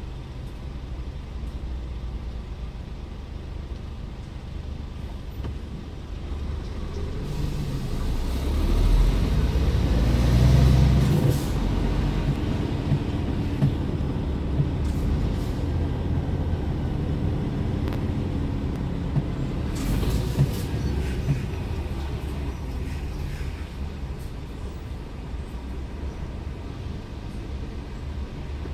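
Scania R410 truck driving, its diesel engine and road noise running as a steady low rumble that swells to its loudest about 8 to 12 seconds in, with a few short clicks later on.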